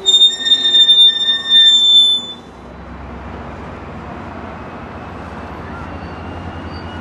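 Passenger train wheels squealing with high, steady tones against the rail. The squeal cuts off about two seconds in, leaving the steady low rumble of a diesel locomotive and rolling train.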